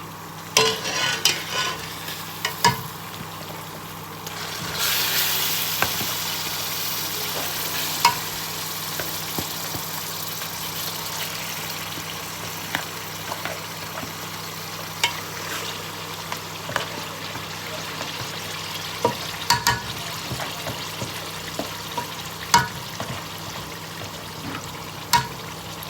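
Blended tomato, onion and pepper mix going into hot groundnut oil in a pot: a few clatters, then a sudden burst of sizzling about five seconds in that settles into steady frying, with a spoon clinking against the pot now and then as it is stirred.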